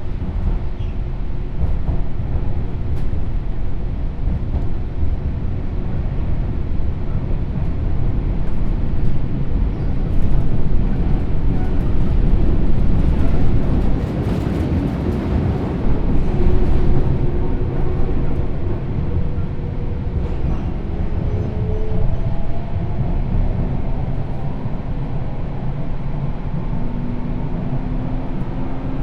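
Onboard running sound of a Sotetsu New 7000 series electric train with Hitachi GTO-VVVF inverter control: a steady rumble of wheels on rail with the motor and inverter whine. It is louder and hissier for a few seconds in the middle, and in the last several seconds several whining tones rise in pitch as the train speeds up.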